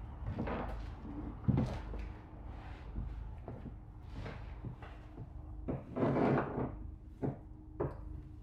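Irregular metal clunks, knocks and rattles of ratchet tie-down straps and their hooks being worked while a car is strapped down on a trailer, the loudest a longer clattering run about six seconds in.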